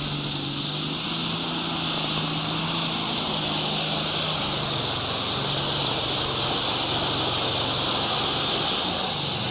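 Turbocharged diesel engine of a John Deere 7800 Super Stock pulling tractor running flat out under full load as it drags the weight sled. A loud, steady high-pitched rush sits over the engine's drone, whose pitch drops slightly about halfway through.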